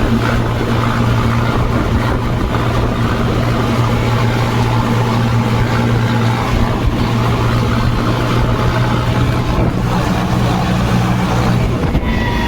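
Mahindra Novo 605 DI PS tractor's diesel engine running steadily at road speed, a constant low drone with no change in pitch.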